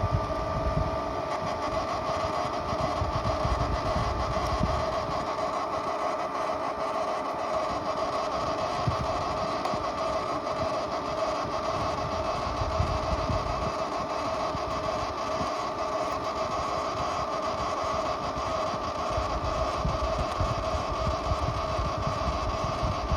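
Refrigerator ice maker making a steady humming drone, two pitched tones held over a low rumble without a break.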